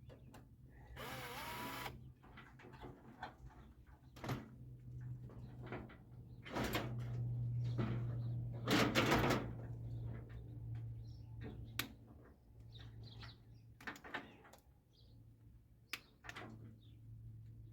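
A power drill/driver with a driver bit running in several short bursts as it backs out screws from the microwave's casing, with clicks, knocks and rattles of metal parts being handled between runs. A steady low hum sits underneath.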